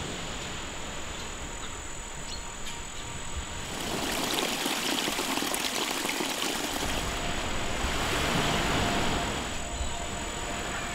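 Water rushing in a steady hiss, getting louder about four seconds in, as in the heavy downpour and floodwater at the cove.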